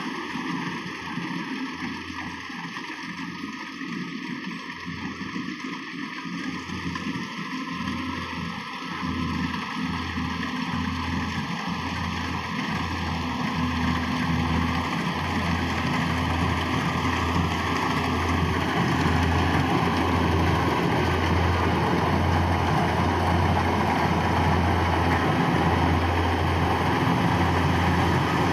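Rice combine harvester running, its engine humming under the noise of the cutting and threshing machinery, growing louder over the first two-thirds and then holding steady.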